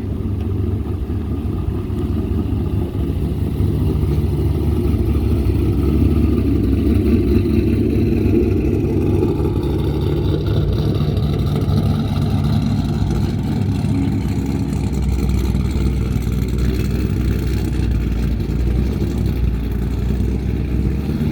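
A car's engine running close by with a steady, low rumble, its pitch shifting lower about fifteen seconds in.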